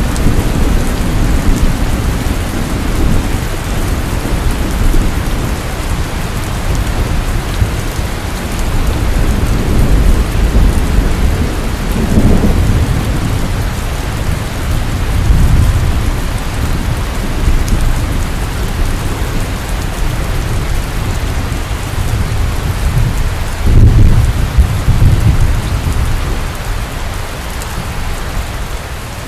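Heavy rain falling steadily, with low rolling thunder rumbling several times; the loudest rumble comes past the middle.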